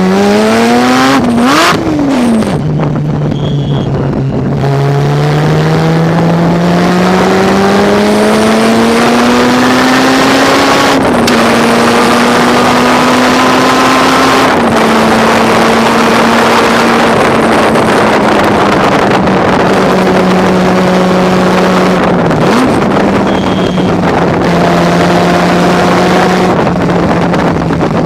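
Race car engine running hard under load, its pitch climbing and dropping as the car accelerates and brakes: it falls sharply about two seconds in, climbs steadily for several seconds, then eases and holds, with a brief blip of revs near the end.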